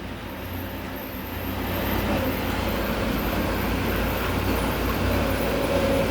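Diesel engine of heavy earthmoving machinery running steadily, getting louder about two seconds in, with a faint whine joining it.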